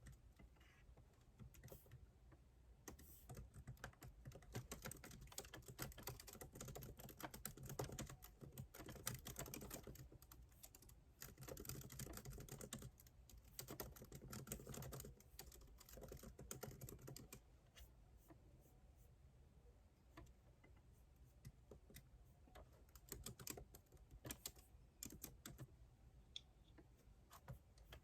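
Faint typing on a computer keyboard: runs of quick keystrokes through the first half, thinning to scattered taps with pauses later on.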